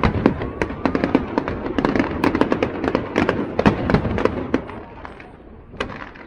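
Fireworks going off: a dense, rapid crackle of many sharp bangs and cracks, thinning out to a few scattered cracks near the end.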